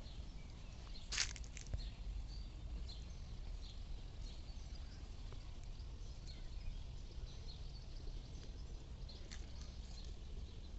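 Quiet outdoor ambience: faint, scattered bird chirps over a steady low rumble, with a sharp click about a second in.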